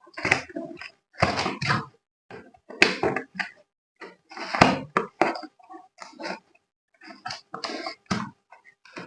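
Irregular knocks, clicks and rattles of objects being handled, in short clusters separated by brief pauses.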